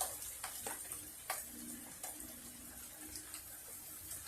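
Light rain sprinkling: scattered raindrops tapping irregularly, over a faint steady hiss.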